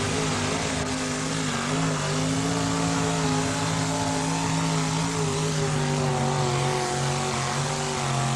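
Pulling truck's 630-cubic-inch Chevrolet big-block V8 running flat out at high rpm on a pull, one steady high engine note. The pitch steps up slightly about two seconds in and begins to drop right at the end as the throttle comes off.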